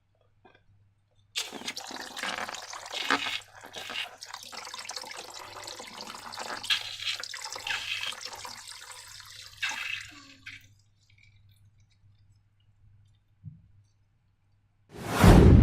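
Wet slime squelching and sloshing as it is squeezed and worked, for about nine seconds. Near the end comes one loud, sudden burst.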